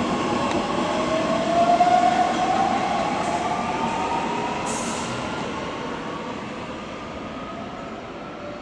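Electric-locomotive-hauled Intercity train pulling away and rolling over the tracks, with a whine that rises in pitch over the first few seconds and two short high squeaks. The sound fades steadily as the train moves off.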